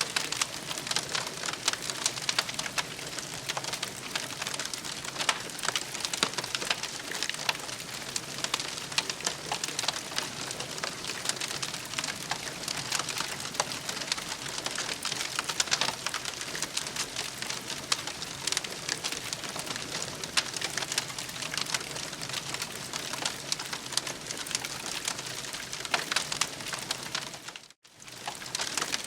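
Campfire crackling: a dense hiss of burning wood peppered with many small sharp pops. The sound cuts out for a moment near the end, then resumes.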